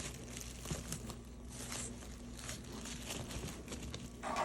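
Plastic bags rustling and crinkling faintly and unevenly as a puppy shifts about among them in a toy basket.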